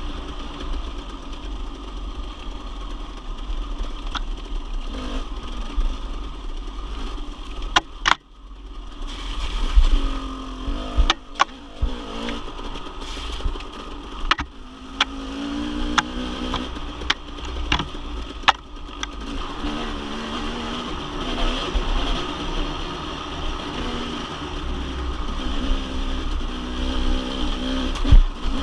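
Dirt bike engine running under way, its pitch rising and falling with the throttle, with sharp knocks now and then and a brief drop in sound about eight seconds in.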